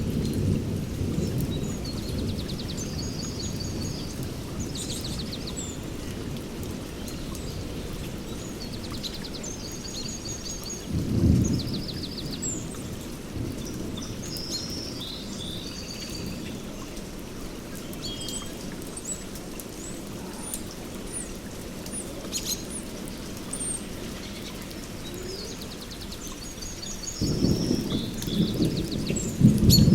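Steady rain with rolls of thunder: a rumble at the start, a short one about eleven seconds in, and a louder one building near the end. Birds chirp and trill through the rain.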